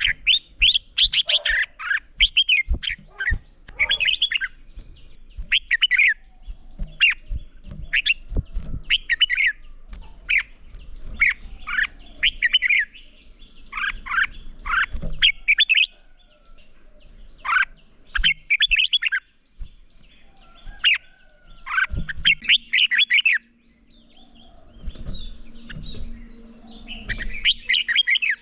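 Red-whiskered bulbuls singing their competitive song: short, rapid warbled phrases one after another, with brief pauses between bouts.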